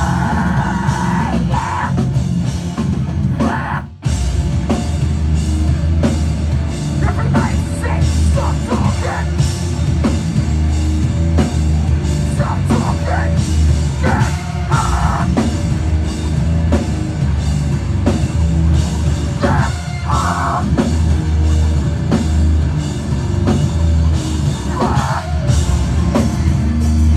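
A heavy metal band playing live: loud, dense drums, bass and guitars, with shouted vocals now and then and a brief break about four seconds in.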